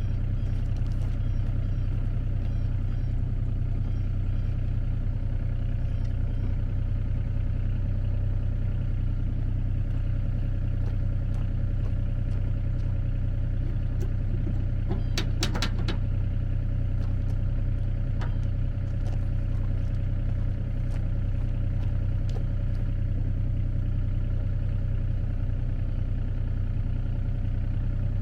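An engine running steadily with an even low hum, with a brief clatter about halfway through.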